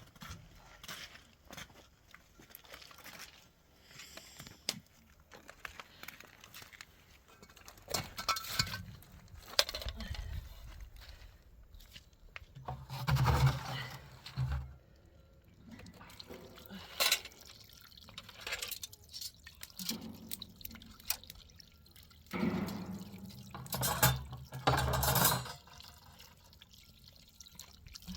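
Water being poured and splashed by hand in irregular bursts, the loudest about halfway through and again near the end.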